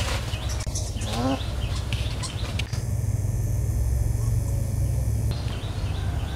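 Small birds chirping in short repeated calls over a steady low rumble.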